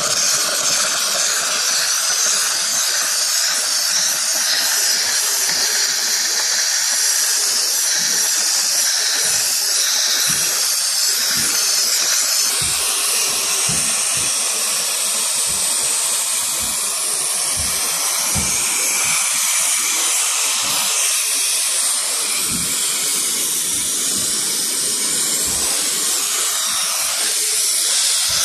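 Dry steam cleaner jetting steam in a steady, loud hiss with the most energy in the high range, as it is blown through a heat pump's coils.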